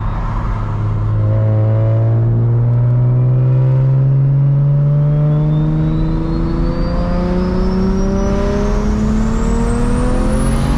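BMW 335i's N54 inline-six, converted to a big single turbo, accelerating at full throttle, heard from inside the cabin. The engine note rises steadily, and from about three seconds in a thin turbo whistle climbs higher and higher as the turbo spools.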